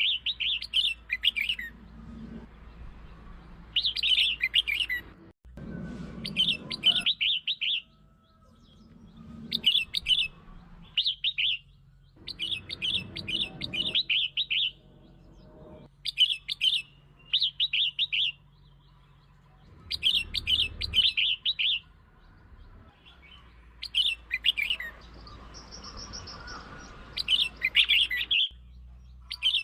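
Red-whiskered bulbul singing: short, bright, warbling phrases of about a second each, repeated every two to three seconds. It is a provoking song of the kind used to lure and excite other bulbuls.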